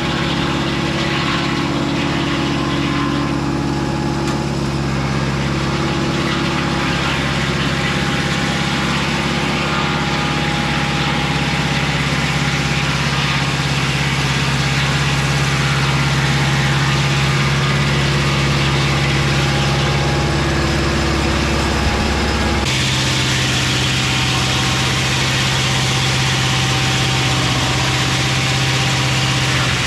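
Mobile Dimension circular-blade sawmill running steadily under power, with an abrupt change in its pitch and tone a little over 22 seconds in.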